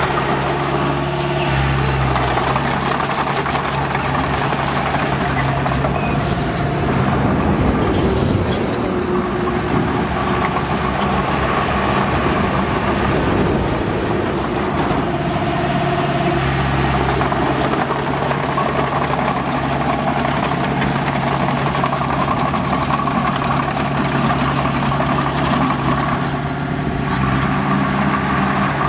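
Heavy diesel earthmoving machinery running steadily, its engine note shifting a few times as it works.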